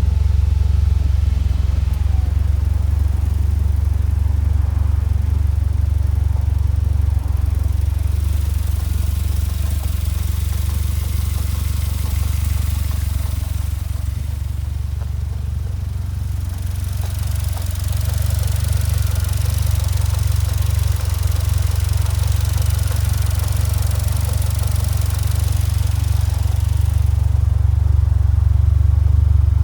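Westfield sports car engine on individual throttle bodies running steadily at low speed during its first full run, while the throttle bodies are being set up. A high hiss comes in twice, for several seconds each time.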